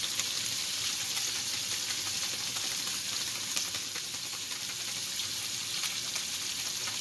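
Chicken pieces with sautéed onions, tomatoes and garlic sizzling steadily in a frying pan, with small crackles through the hiss.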